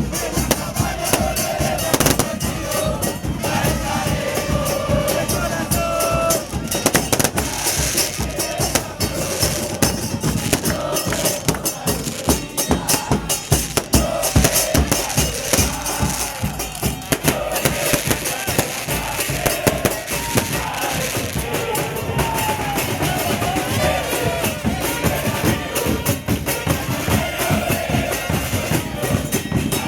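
Football supporters' drums, bass drums and snares, beating a fast steady rhythm under a crowd singing a chant together.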